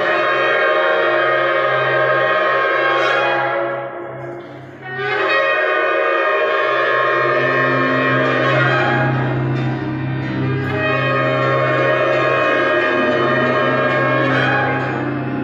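Several shofars blown together in long held blasts: one of about four seconds, a brief break, then a longer blast of about ten seconds. A steady low drone runs underneath.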